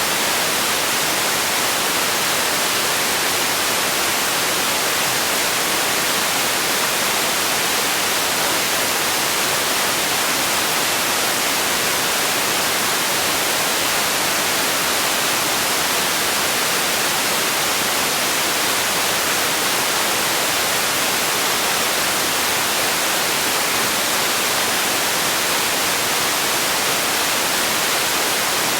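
Steady synthetic noise for sleep: an even, unchanging hiss, heavy in the treble and thin in the bass, like white noise.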